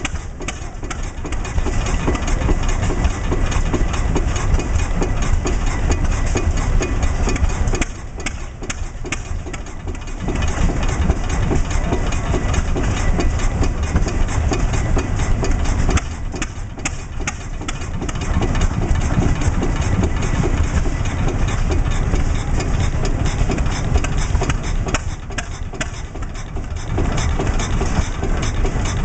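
Vintage Cummins oil engine (an early diesel) running steadily. The sound falls off for a couple of seconds three times.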